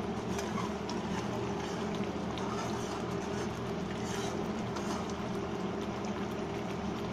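Spiced masala paste bubbling and sputtering as it fries in oil in a pan, with small pops throughout. A steady low machine hum runs under it.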